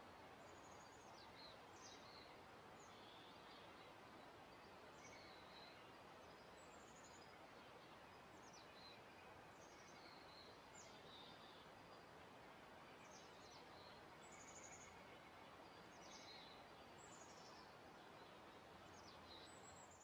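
Faint birds chirping in a forest, short high downward-slurred calls about once a second, over a steady soft hiss.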